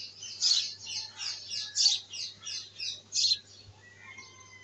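A small bird chirping in a quick run of short, falling chirps, about four a second, that stops shortly before the end. A faint, steady low hum lies underneath.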